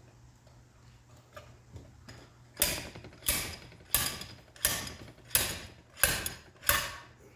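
Seven sharp hammer blows on steel in an even rhythm, about one every 0.7 seconds, each ringing briefly. They are driving a part out of a John Deere 830 tractor's clutch assembly during a bearing rebuild.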